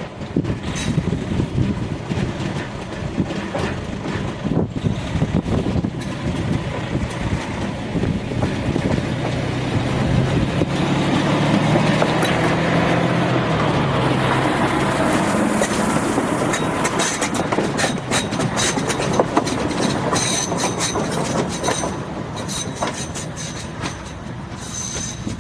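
A train passing on the tracks. A low engine rumble builds toward the middle, then the cars clatter over the rail joints with rapid clicks, and a faint high wheel squeal comes near the end.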